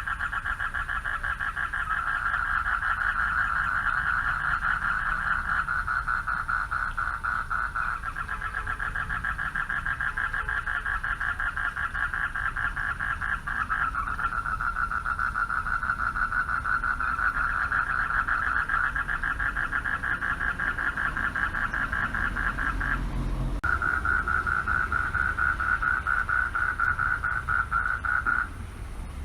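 Male frogs calling from a pond to attract mates: a dense chorus of fast-pulsed trills that runs almost unbroken, with a short gap about twenty-three seconds in and another near the end.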